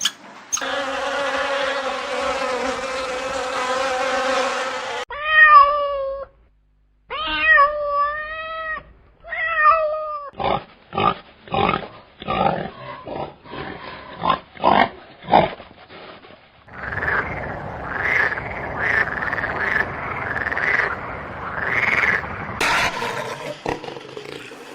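A run of different animal calls one after another: a long held call, then three short cries that rise and fall in pitch, then a fast series of short sharp calls, then a rough, raspy call.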